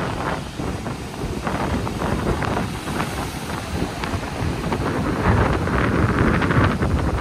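Rough sea surf breaking and washing in, with strong wind buffeting the microphone and a heavy low rumble. The surge is loudest from about five to seven seconds in.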